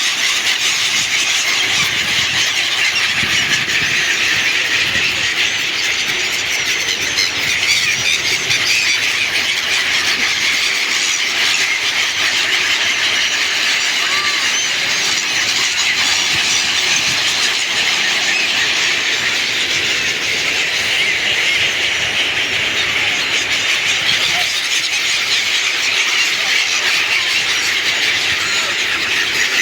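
A large flock of small birds chattering and calling together, a dense unbroken chorus of many overlapping high chirps.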